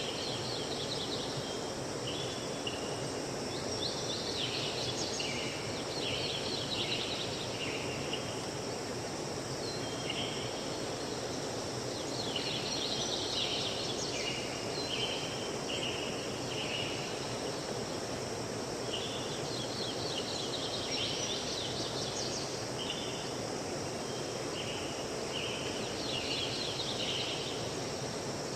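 Steady rush of flowing river water, with a songbird singing short bursts of chirping phrases every several seconds.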